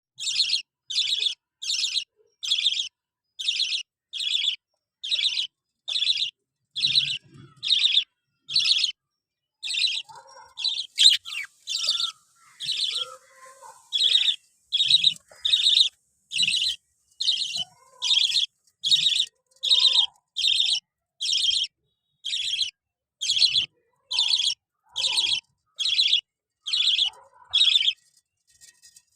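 Small pet parrot kept as a love bird, giving short shrill chirps over and over at an even pace of a little more than one a second. The run loosens briefly about a third of the way in, with a few softer, lower chirps and faint knocks, then resumes and stops shortly before the end.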